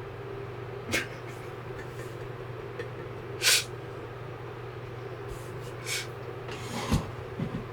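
Rain on a small truck camper, a steady wash with a constant low hum under it, broken by a few short sharp knocks or splashes; the loudest comes a little past three seconds in, and another falls near the end.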